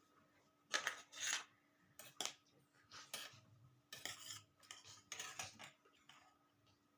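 Clinks and scrapes of a utensil against a plate: several short, irregular scrapes spaced roughly a second apart, as food is served or mixed.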